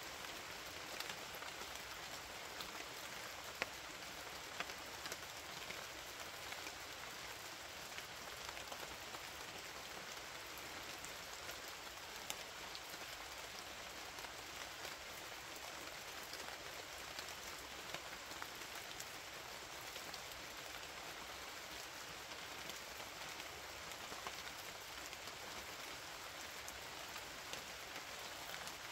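Steady rain falling, with a dense patter of small drop ticks throughout.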